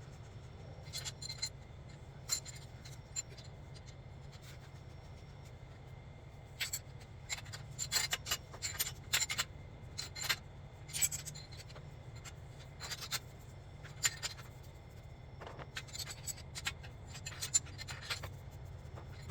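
Irregular metallic clicks and short scrapes of hand tools working on exhaust up-pipe bolts, over a low steady hum.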